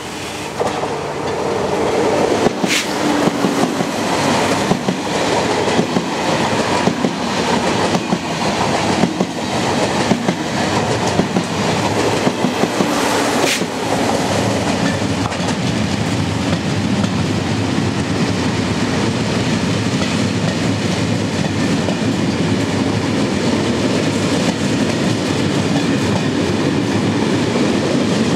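Passenger trains rolling past close by on electrified track: a steady rumble of wheels with rhythmic clacks over rail joints, denser in the first half, and two sharp high clicks about three seconds in and near the middle.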